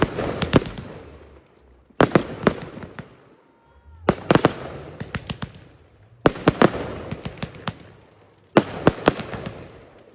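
Fireworks display: aerial shells bursting in volleys about every two seconds, each volley a cluster of several sharp bangs in quick succession that fade out before the next.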